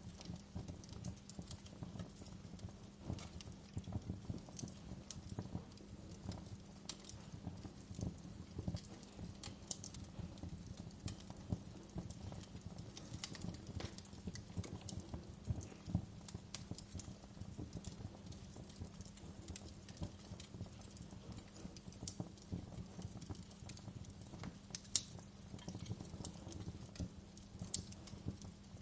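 Fire crackling steadily, with dense irregular pops and snaps over a low rumble and one sharper pop about 25 seconds in.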